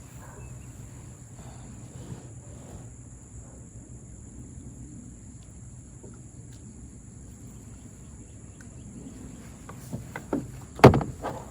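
Handling noises in a plastic kayak: faint small clicks and rustles while a hooked fish is being worked at, then a few sharp knocks near the end, one much louder than the rest. A steady high-pitched insect drone runs underneath.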